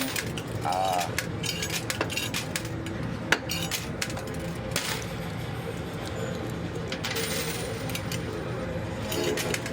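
Quarters dropping and clinking on a coin pusher's playfield, with scattered metallic clicks and one sharper clink about three seconds in, over a steady background hum.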